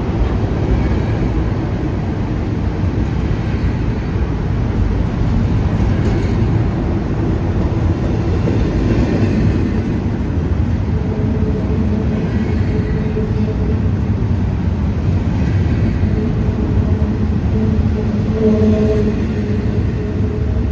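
Freight train of intermodal cars rolling past: a loud, steady low rumble of steel wheels on rail, with faint held tones coming and going in the second half.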